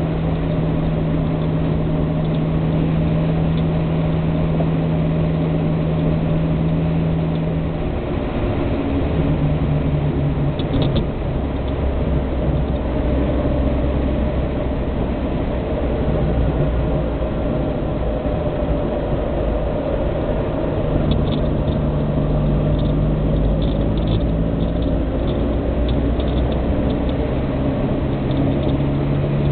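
Austin A40 Farina's four-cylinder A-series engine running under way, heard from inside the car, with road and drivetrain noise. The engine note drops in pitch about eight seconds in and shifts again twice later, with light rattling ticks now and then.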